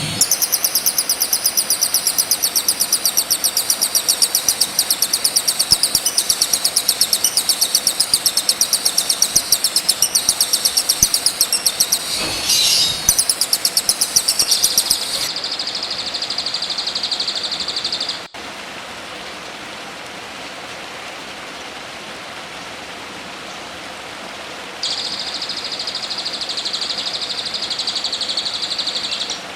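Recorded songbird song: a fast run of high, rapidly repeated notes for about fifteen seconds, then a steady high buzzing trill. It cuts off abruptly, leaving a steady hiss, and a high trill starts again near the end.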